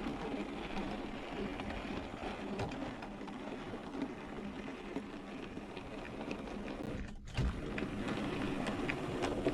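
Model train running on the layout's track: a small electric motor's steady hum with wheels ticking over rail joints. About seven seconds in the sound drops out briefly, then a thump.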